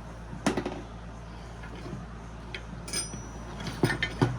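Metal scrap parts knocking and clinking as they are handled, a few separate strikes, one about three seconds in with a brief metallic ring, and a quick cluster near the end.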